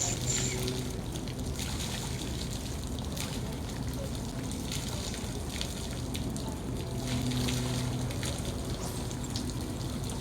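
Steady rush of flowing creek water, with a faint low hum at times in the background.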